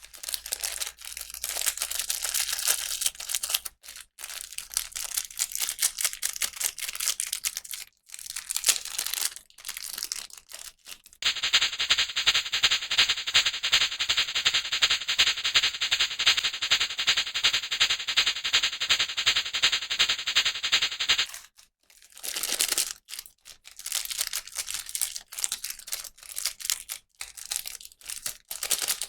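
Plastic packaging crinkling and tearing in short spells, with one continuous, even crackle lasting about ten seconds in the middle.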